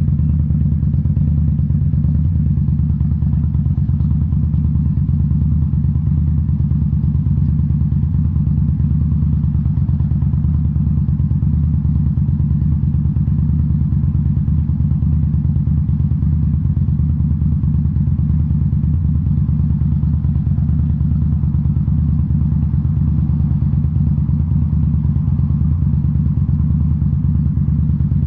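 2018 Indian Scout Bobber's V-twin engine, fitted with Rinehart slip-on mufflers, running at a steady speed on the road. The pitch and loudness barely change, with no revving or shifting.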